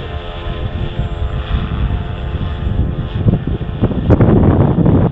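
Radio-controlled helicopter running in flight, a steady whine of rotor and drivetrain. From about three seconds in, strong wind buffets the microphone and grows loud, nearly covering it.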